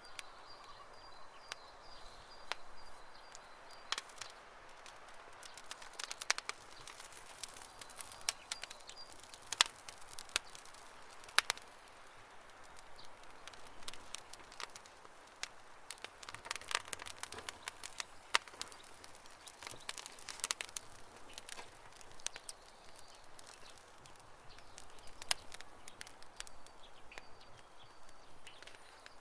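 Campfire crackling, with irregular sharp pops and snaps of burning wood over a soft hiss.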